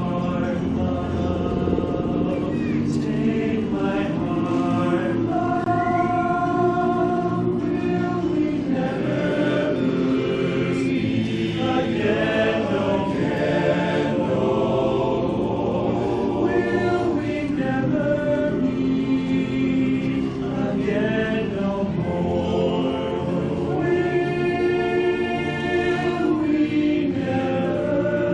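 Barbershop chorus of men's voices singing a cappella in close four-part harmony, holding sustained chords that change every second or so.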